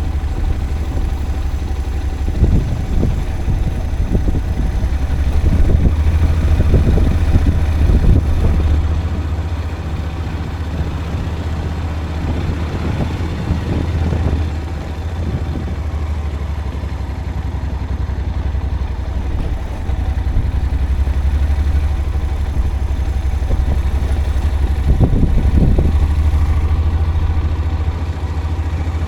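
A vehicle engine running steadily while travelling along an unpaved forest road, with a low hum throughout and rougher, louder stretches of jolting and rattling now and then.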